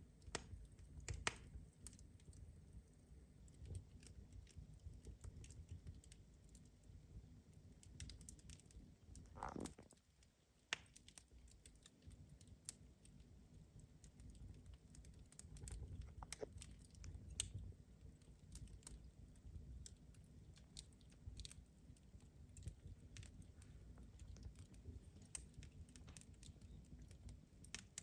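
Wood fire burning in a fireplace: faint, irregular crackles and pops over a low steady rumble.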